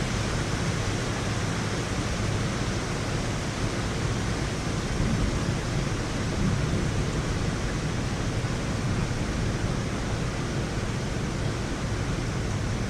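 Heavy rain falling steadily, an even unbroken hiss with no thunderclap in it.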